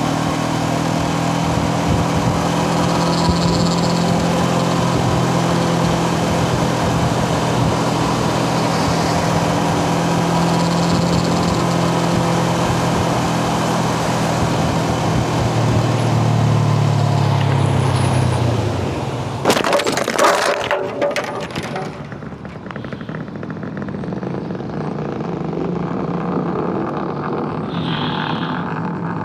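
Motorcycle engine running under way with heavy wind noise, its note dropping as the bike brakes hard; about twenty seconds in comes a crash, a burst of impacts and scraping, after which only quieter engine and traffic noise remain.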